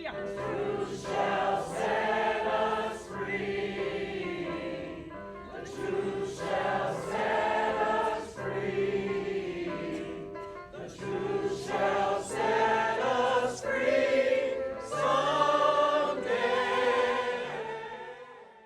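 A choir singing slow, held chords over a low bass line, fading out near the end.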